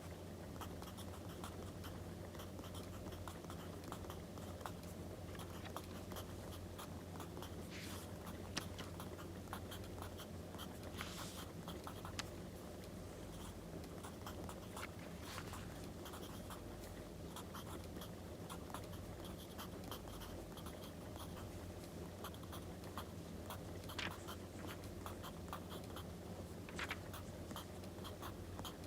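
Writing on paper, with scratchy strokes, over a crackling wood fire full of small pops, a few of them sharper and louder, and a low steady hum underneath.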